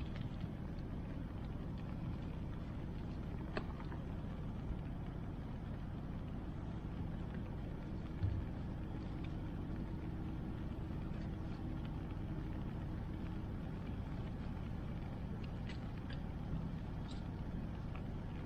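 Steady low rush of river water and rain, with a few sharp crackles from a wood bonfire and one soft low thump about eight seconds in.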